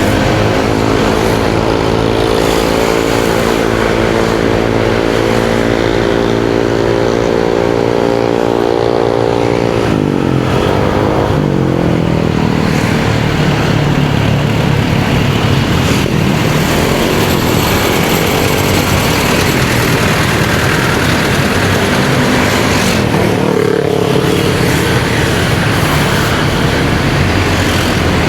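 Motorcycle engine running under way, with road and wind noise. Its note holds steady for the first ten seconds, then drops and wavers as the engine speed changes.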